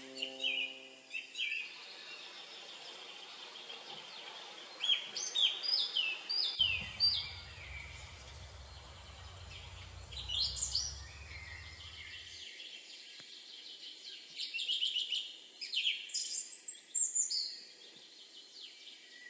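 Small birds singing: repeated short, high phrases, many falling in pitch, over a faint outdoor hiss. A low rumble comes in for several seconds in the middle.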